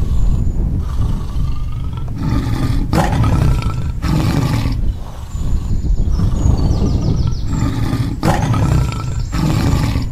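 Tiger growling and roaring in a run of deep, rough calls, with louder bursts every two to three seconds.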